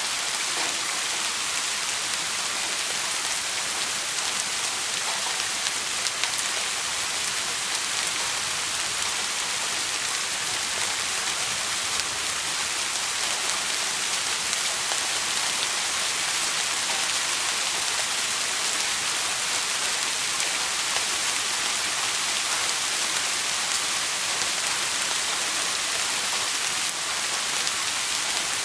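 Steady rain falling: an even, unbroken hiss of many drops with no pauses or swells.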